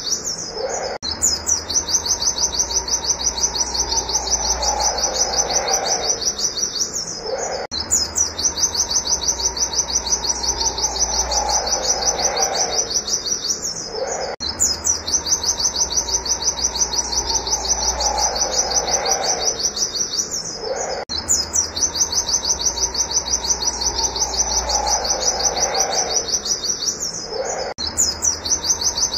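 White-eye (pleci) singing a rapid, high 'wit wit' series of repeated notes in long strings, each broken by a short pause about every seven seconds.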